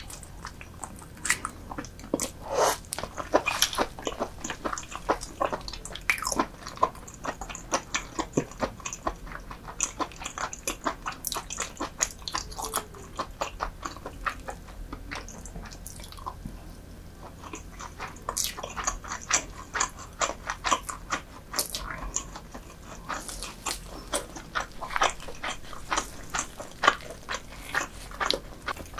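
Close-miked eating sounds: a person chewing wet, soft food, with many short, sharp mouth clicks and smacks in an irregular stream that thins out for a few seconds about halfway through.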